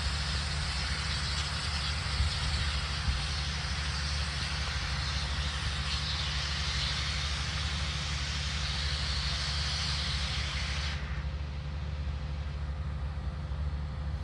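Steam locomotive hissing steam over a steady low rumble; the hiss drops off suddenly about eleven seconds in.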